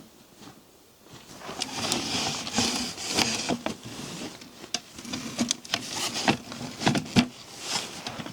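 Rustling with many scattered clicks and light knocks, starting about a second in, the loudest a sharp knock near the end.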